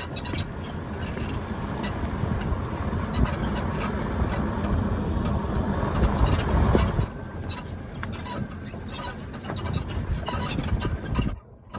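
Mercedes-Benz S550's front suspension squeaking again and again, over the steady rumble of the car driving over bumps. The owner suspects worn bushings, control arms or ball joints.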